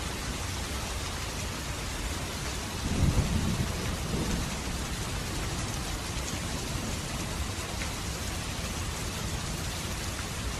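Steady rain falling on surfaces, with a brief low rumble of thunder about three seconds in.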